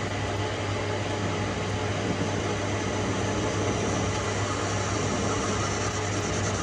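Metal lathe running: a steady machine hum with a strong low drone and an even hiss.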